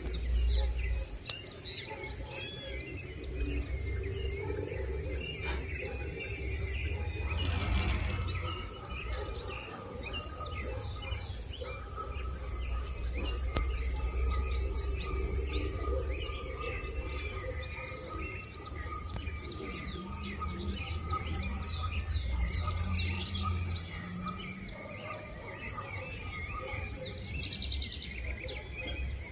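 Many small birds chirping together, a dense chorus of quick, falling high notes, over a steady low rumble.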